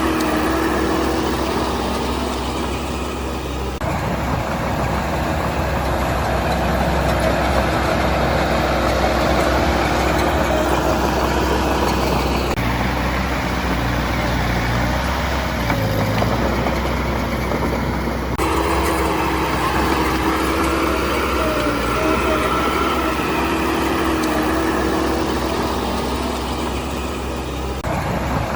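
Heavy construction machinery's diesel engine running steadily. The engine note shifts abruptly three or four times.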